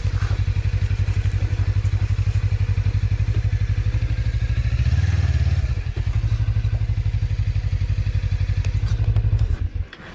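Suzuki V-Strom 250's parallel-twin engine idling steadily with an even low pulse, swelling briefly about halfway, then shut off near the end.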